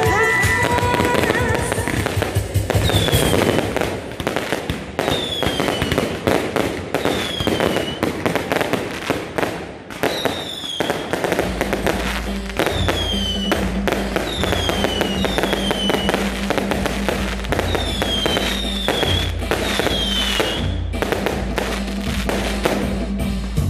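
A fireworks display, with dense crackling and banging bursts going off without a break. Short whistles that fall in pitch recur about once a second through most of the show.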